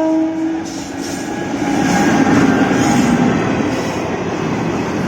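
Vande Bharat Express train running past: its horn cuts off in the first second, then a loud steady rumble and hiss of wheels on rails and passing carriages.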